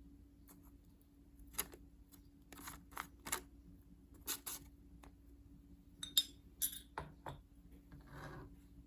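A string of light clicks and knocks at irregular intervals, as small household objects are picked up and set down, with a short rustle near the end and a faint steady hum beneath.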